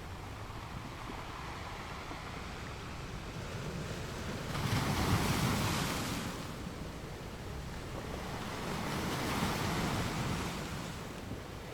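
Ocean waves breaking on beach rocks: a steady wash of surf with two waves swelling and crashing, one about four and a half seconds in and another around nine seconds in.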